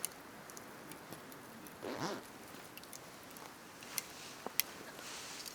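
Campfire wood crackling, with a few sharp pops, about two seconds in a brief sound that bends in pitch.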